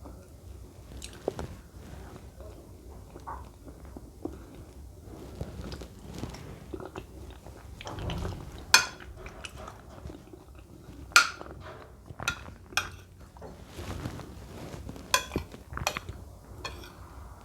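Close-up eating sounds of soft mashed plantain being chewed, with cutlery knocking sharply against a dish about six times, the clicks coming in the second half.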